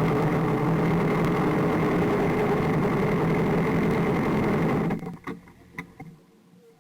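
Motorcycle engine running at a steady, unchanging pitch, then cutting out about five seconds in, leaving a few faint clicks.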